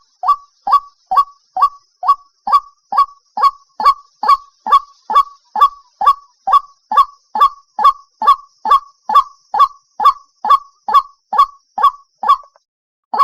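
White-breasted waterhen calling: a steady run of short, loud, harsh notes repeated a little over twice a second, with a brief break near the end. It is a recorded lure call of the kind played to draw waterhens into nets at night.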